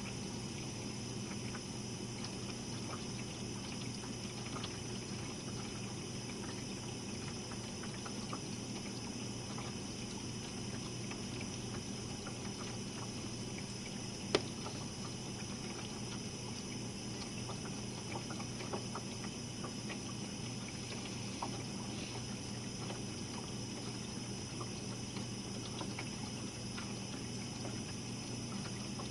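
Jenn-Air dishwasher running its wash cycle, heard from underneath: a steady motor hum with water splashing inside. A single brief tick about halfway through.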